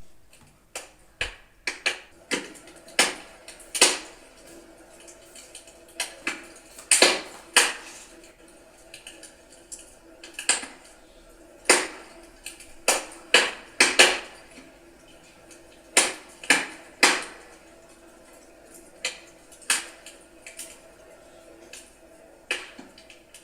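Wood fire in a fireplace crackling, with irregular sharp pops of firewood, one or two a second, some much louder than others.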